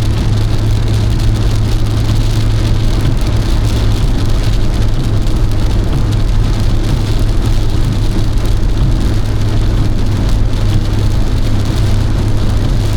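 Heavy downpour drumming steadily on a car's roof and windscreen from inside the cabin as it drives into a thunderstorm's core, over the steady low drone of the car's engine and tyres.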